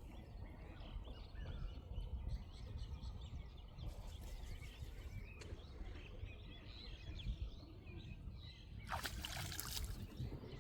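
Small birds chirping over a steady low rumble, with a short rush of noise near the end.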